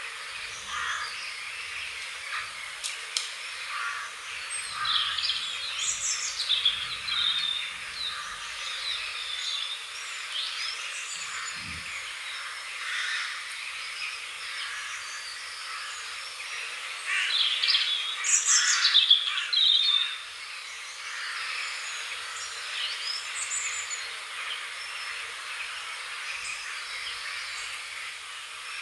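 Wild birds chirping and singing, several short calls and sweeping notes overlapping over a steady background hiss, with a louder, busier run of song about two-thirds of the way through.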